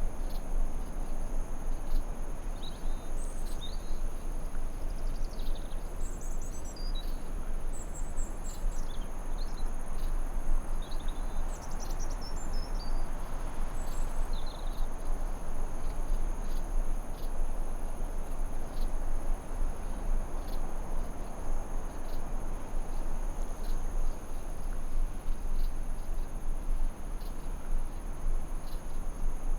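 Forest ambience: a steady, high-pitched drone over a constant low hiss, with birds giving scattered short chirps during the first half.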